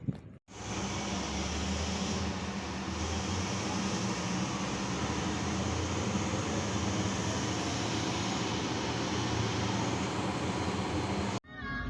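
Large diesel engine of a mining haul truck running steadily, a loud, even drone with a deep hum. It starts abruptly after a brief cut and stops suddenly near the end.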